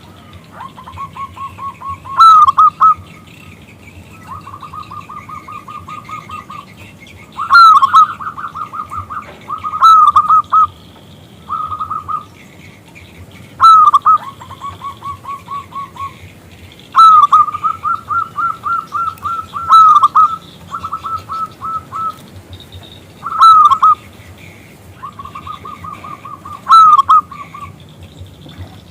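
Zebra dove (perkutut) cooing: phrases of rapid staccato coos repeat every few seconds, many opening with a few loud notes that slide downward.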